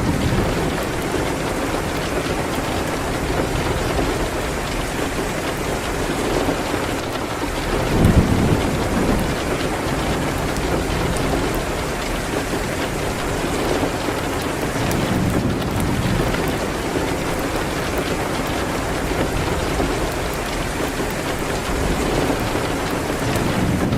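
Steady rain beating on a window, mixed with the crackle of a wood fire in a fireplace. Low rumbles of thunder swell in now and then, the strongest about eight seconds in.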